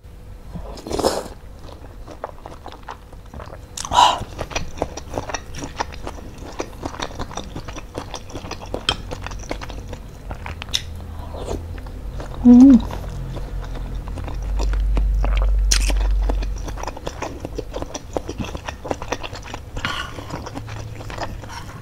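Close-miked chewing and wet mouth sounds of someone eating meatballs and noodles in soup, many small smacks and clicks. A short hum from the eater about twelve and a half seconds in, and a low rumble for a couple of seconds soon after.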